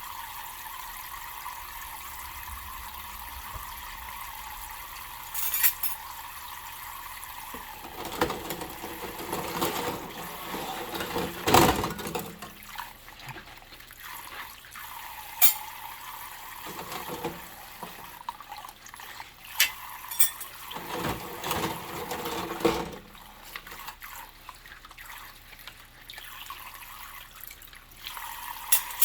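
Water running from a kitchen tap into a sink, with dishes being washed and handled: a busy middle stretch of splashing with several sharp clinks and knocks, then the steady running resumes near the end.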